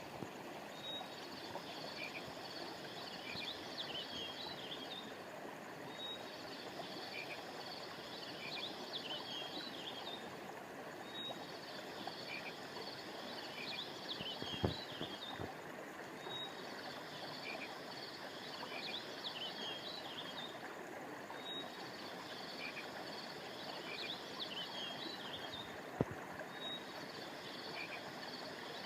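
A stream runs steadily under a high-pitched chirping chorus of small animals. The chorus comes in bursts of about four seconds that repeat every five seconds. There are two soft thumps in the middle.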